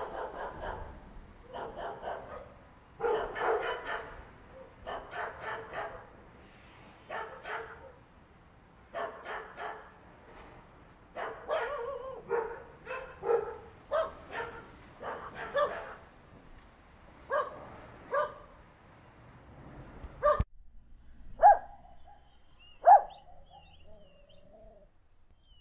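A group of angry dogs barking aggressively in overlapping, irregular volleys. About twenty seconds in, the sound cuts to a single dog giving a few separate barks a second or so apart.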